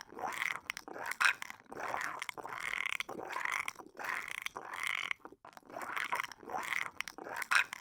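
An animal calling over and over, about one short call a second.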